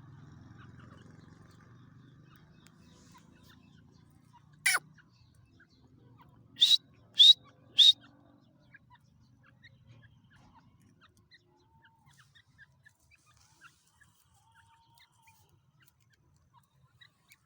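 Birds calling: one loud, sharp call about five seconds in, then three loud calls in quick succession, followed by scattered faint chirps.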